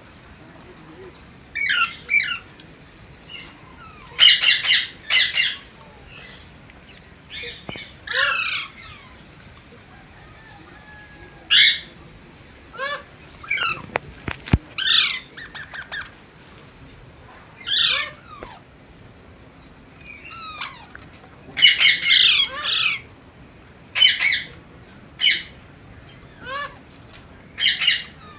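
Ringneck parrot giving short, sharp squawks and chirps, singly and in quick runs of three or four, repeated through the span over a steady high-pitched hiss.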